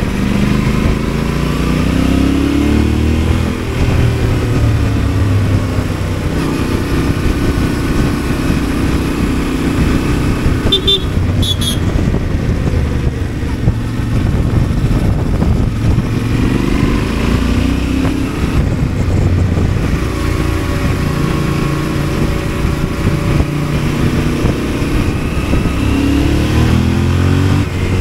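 Yamaha Ténéré 700 Rally Edition's 689 cc parallel-twin engine heard from the rider's seat, pitch rising as it pulls out of the bends and dropping at each gear change or as the throttle closes, with wind and road noise. About eleven seconds in, a horn gives two short beeps.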